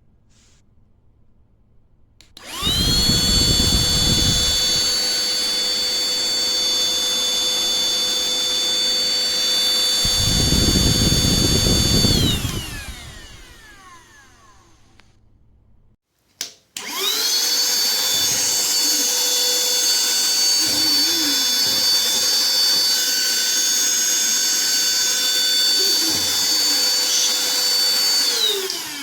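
SIMWAL cordless handheld vacuum cleaner switched on, its motor running with a steady high whine for about ten seconds, with a lower rumble twice along the way, then switched off and winding down in a falling whine. After a click it starts again, runs for about twelve seconds and winds down once more near the end.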